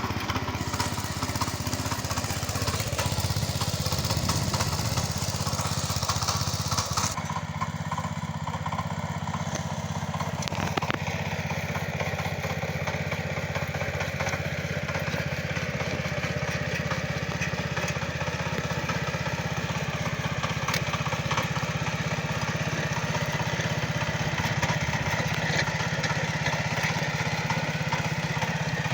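Tractor engine running steadily, its tone changing about seven seconds in and again around ten seconds in, then holding steady.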